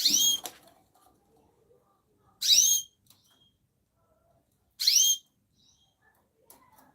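A bird giving a short, loud, rising whistled call three times, about two and a half seconds apart.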